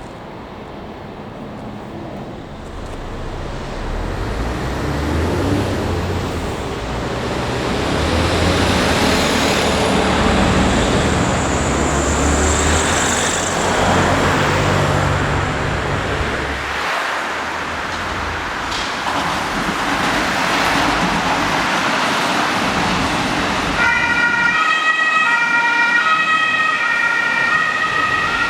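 A train passing with a rising rumble and rushing noise. About three-quarters of the way through, a two-tone emergency-vehicle siren starts, alternating between two pitches over the continuing noise.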